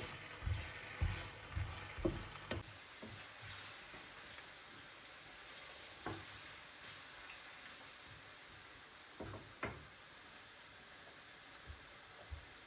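Food sizzling in a frying pan as a steady hiss. Several knocks of a utensil against the pan come in the first couple of seconds, and a few single clicks follow later.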